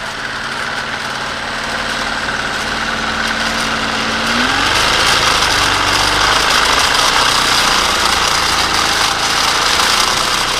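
A plastic model jet turbine spun by a high-speed electric motor, whirring steadily. About four seconds in its pitch starts to climb as it speeds up, and a rushing noise grows louder.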